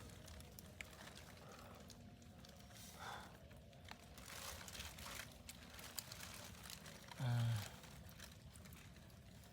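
Faint rustling and crinkling, as of handled bags or gear, with a brief low voice sound, like a grunt or short word, about seven seconds in.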